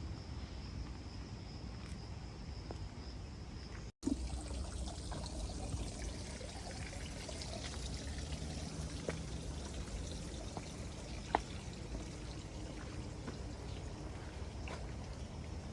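A steady high insect drone for about four seconds, then, after an abrupt cut, running water trickling with a few faint clicks.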